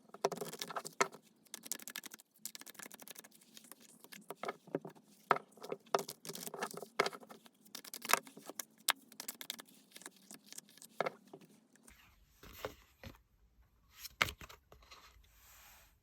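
Tarot cards being shuffled and handled on a table: irregular clicks, taps and rustles. The texture changes about twelve seconds in, with a faint low hum and a few sharper taps.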